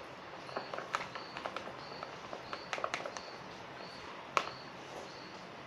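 Foam slime being stirred as it thickens, giving irregular sticky clicks and pops, the loudest about four seconds in. Behind it a cricket chirps steadily, about one and a half chirps a second.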